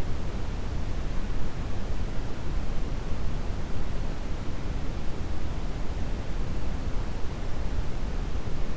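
Steady brown noise: a deep, even rushing hiss, strongest in the low end, with no changes or events.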